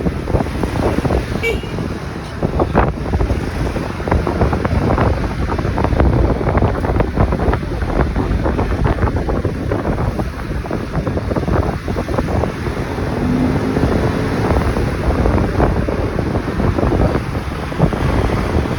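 Wind rushing and buffeting over the microphone of a camera on a moving motorcycle, a loud steady rumble with gusts, with the ride's road noise beneath.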